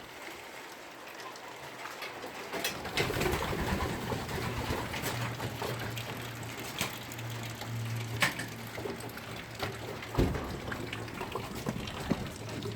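Homing pigeons cooing, a low continuous pulsing hum that sets in about three seconds in, over a steady hiss of water and scattered sharp clicks.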